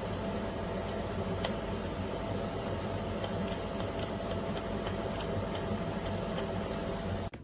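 Small electric blade grinder's motor running steadily, with a hum and scattered light ticks, then cutting off suddenly near the end.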